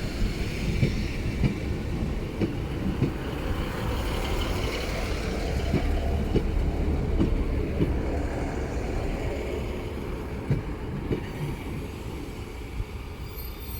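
A train passing on the tracks: a steady low rumble with the wheels clicking irregularly over rail joints, fading over the last few seconds.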